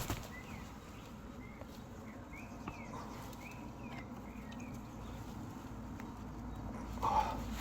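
A small bird chirping in the background, a series of short rising and falling notes about two a second that die away after about four seconds, over a steady low hum. About seven seconds in there is a brief louder scrape or rustle.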